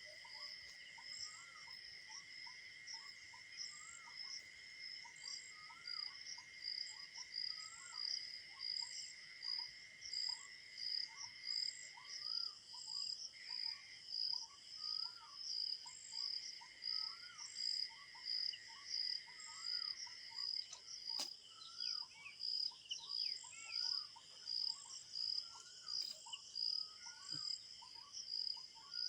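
Evening chorus of crickets chirping in a steady rhythm, about two chirps a second, over a continuous insect trill that drops out about a third of the way in and returns briefly. Short, repeated chirping calls sound lower down, every second or so.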